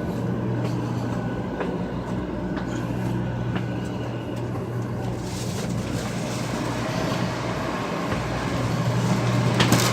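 A Shinkansen train standing at the platform with a steady low hum, some scattered clicks, and a hiss that comes in about halfway through.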